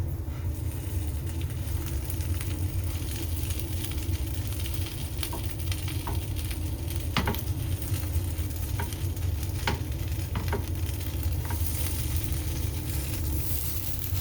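Egg-dipped bread frying in oil and ghee in a pan, sizzling steadily over a low hum, with a few sharp clicks scattered through it; the sizzle grows brighter near the end.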